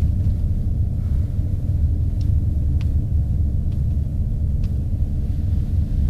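A steady low rumble with a few faint, short high ticks scattered through it.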